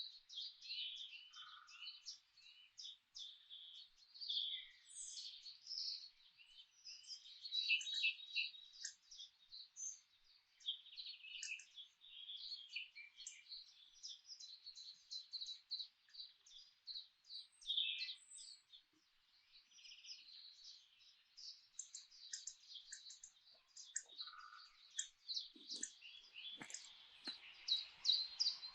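Songbirds chirping and singing in a dense, overlapping chorus of short high calls, with a few faint taps near the end.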